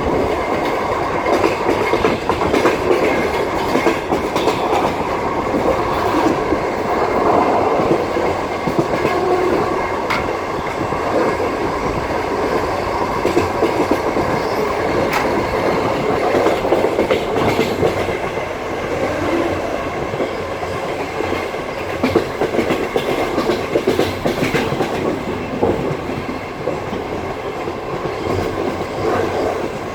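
Passenger train wheels clacking over the rail joints, with the steady rumble of the wheels on the rails, heard from inside the carriage.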